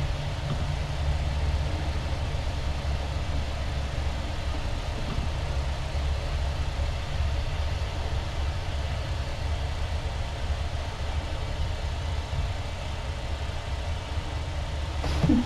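Steady low hum with an even hiss, like a fan or other machine noise picked up by a room microphone. A brief short pitched sound comes just before the end.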